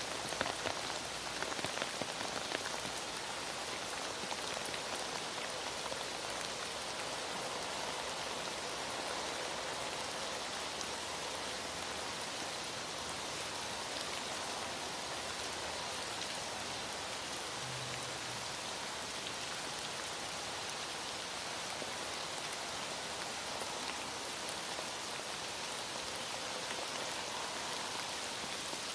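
Heavy rain falling steadily: a dense, even hiss of rain on a surface, with a few sharper ticks near the start.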